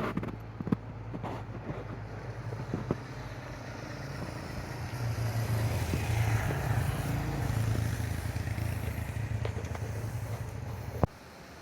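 A motor vehicle's engine running with a steady low hum that grows louder in the middle and then eases, with a few light clicks over it. It cuts off suddenly near the end.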